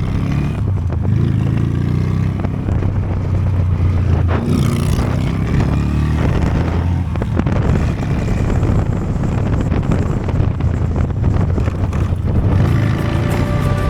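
Honda Steed V-twin motorcycle engine running while riding, its note rising a couple of times as it accelerates. Music comes in near the end.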